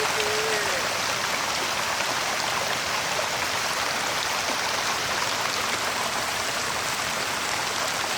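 Steady rush of flowing water, like a swollen river or stream running hard.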